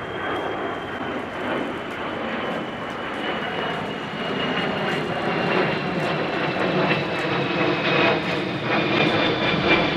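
Kawasaki EC-1's twin Pratt & Whitney JT8D turbofan engines in flight: a jet rumble with a high whine that slowly falls in pitch while the sound grows louder.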